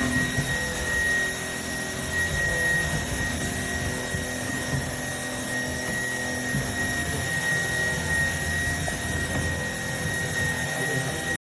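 Trucozie cordless stick vacuum cleaner running steadily: a constant high whine from the motor over a rush of air. It cuts out for a moment near the end.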